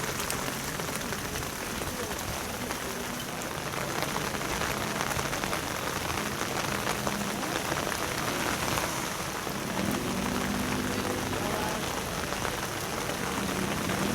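Steady rain falling on a hard surface, an even hiss of many fine drops, with faint voices in the background near the end.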